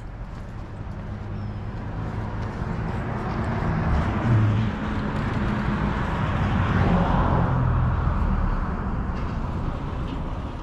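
A motor vehicle driving past, engine and tyre noise swelling to a peak midway and then fading away.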